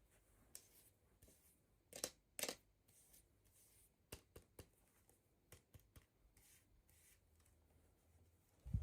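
Faint handling of toy packaging during an unboxing: scattered light clicks and taps, two louder ones about two seconds in.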